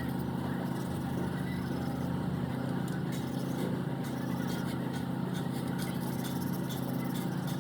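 A steady low machine drone, with a few faint light clicks over it near the middle.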